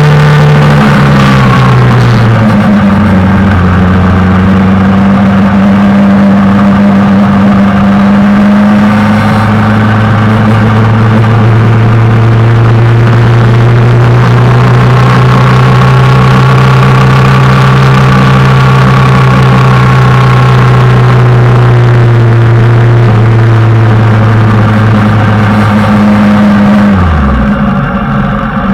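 Suzuki GSX-R600 sportbike's inline-four engine running hard at a nearly steady pitch, heard from on the bike. Its pitch drops about two seconds in, swells and eases gently through the middle, and falls away sharply near the end as the throttle is rolled off.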